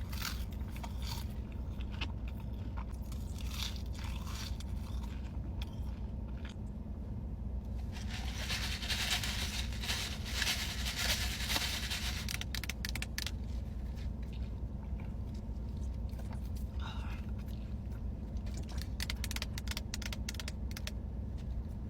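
Close-miked eating: crisp crunching bites and chewing, densest about eight to twelve seconds in, over a steady low hum.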